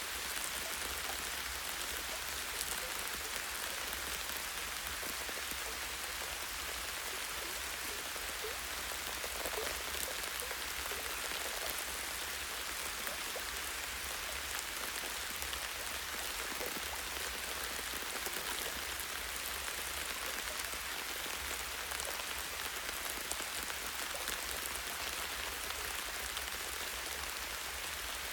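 Light rain falling steadily in a forest, a constant soft hiss with many small drop ticks on leaves and branches.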